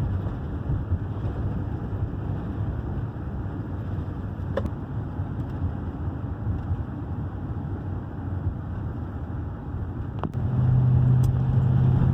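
Van driving at a steady speed, heard from inside the cab: a low, steady drone of engine and road noise. A little after ten seconds in it changes to a louder, steadier hum.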